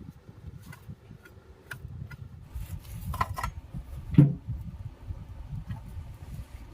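Light clicks and taps of parts and tools being handled during a starter motor repair, with one louder knock about four seconds in, over a low background rumble.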